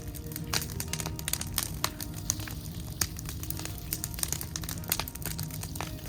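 Scrap wood burning in a fire, crackling and popping with many irregular sharp snaps.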